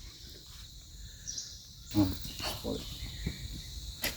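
A steady, high-pitched insect chorus. About halfway through there is a brief low murmur, and near the end a short click.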